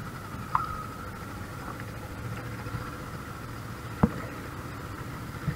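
Boat engine running steadily at low revs. A single sharp knock comes about four seconds in.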